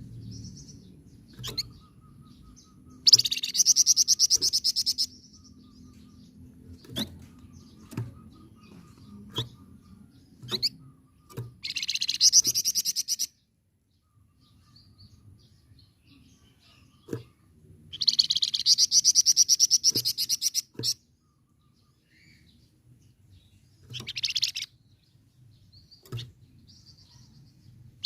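Flamboyan songbird singing: fast rolling trills, each lasting one to three seconds, repeated several times, with single sharp chips in between.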